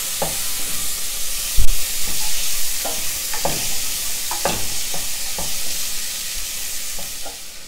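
Boiled chickpeas sizzling as they fry in oil and spices in a stainless steel pot, with a wooden spoon stirring them and making repeated short scrapes against the pot. One louder knock comes about a second and a half in.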